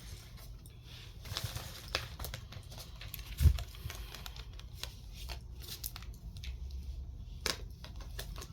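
Tarot cards being handled, with rustling and many small clicks, and one louder low thump about three and a half seconds in.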